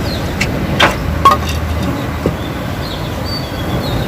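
Apis cerana honey bees buzzing around an opened hive, with a few sharp knocks, the loudest about a second in.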